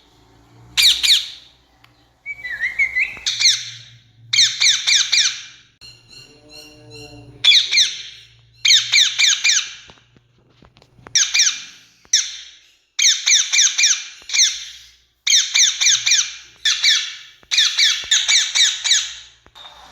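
Rose-ringed parakeet screeching: loud, shrill calls in rapid runs of several notes, about a dozen runs with short pauses between. A fainter, lower pitched call sits in one of the gaps.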